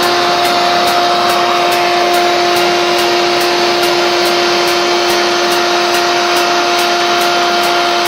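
Bosch cordless vacuum cleaner, converted to run on Li-ion 18650 cells, running steadily: an even, high motor whine over the rush of air.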